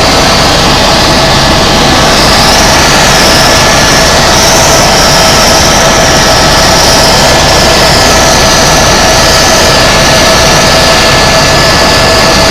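Tour helicopter in flight: steady, loud turbine and rotor noise with a constant high whine.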